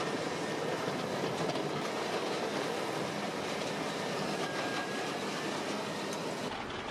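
Peterson 5710D wood grinder running and grinding tree trunks, a steady, even grinding noise. Near the end it gives way to a lower, heavier engine running.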